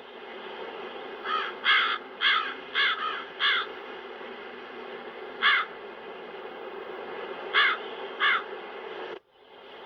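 Crow cawing over a steady wind sound effect: a run of five caws about a second in, a single caw midway, and two more near the end. The sound drops out for a moment just before the end.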